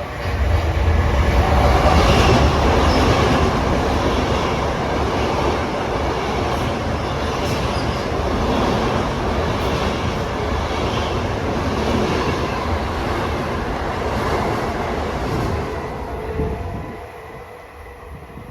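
Long Island Rail Road train going by, a loud steady rumble with rail and wheel noise that comes in suddenly about half a second in and dies away a couple of seconds before the end.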